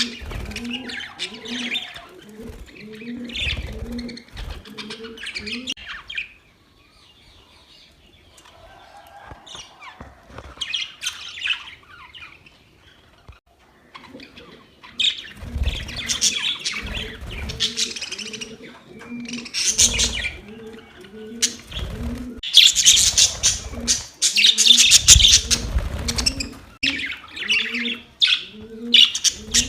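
Budgerigars chirping and warbling in a busy, overlapping chatter, quieter for several seconds a quarter of the way in and loudest near the end. A low note repeats about twice a second underneath.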